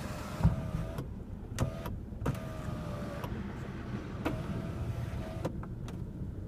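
2013 Lexus RX 350's power moonroof motor whining in several short runs, each start and stop marked by a sharp click, as the one-touch moonroof opens, closes and tilts.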